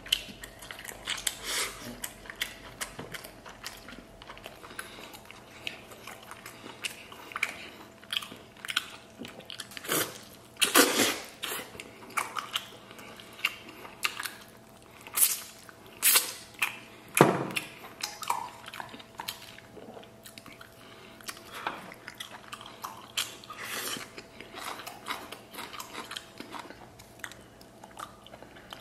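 Close mouth sounds of a person eating braised lamb ribs: chewing and gnawing meat off the bone, with many short wet smacks and a few louder bursts near the middle.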